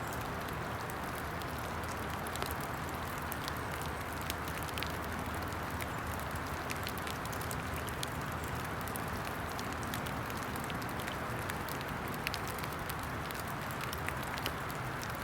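Steady hiss of rain falling in woodland, with many scattered small sharp ticks.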